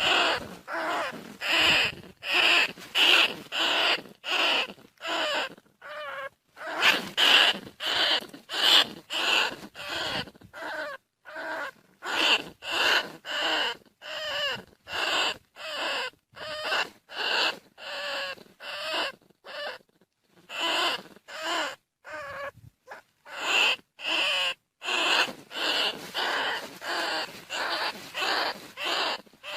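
Bandicoot rat calling: short, sharp calls repeated about twice a second, with a few brief breaks and a longer pause about two-thirds of the way through.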